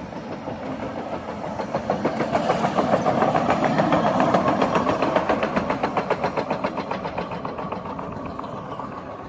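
Hi-rail truck passing on the railroad track, its engine running with a fast, even pulsing clatter that swells as it draws level and fades as it moves away. A thin high whine sounds over the first half and dies out.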